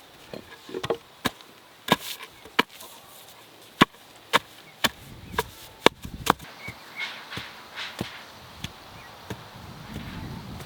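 Repeated sharp blows of a tool striking wood, about a dozen irregular strikes roughly half a second apart, thinning out to a few fainter ones near the end.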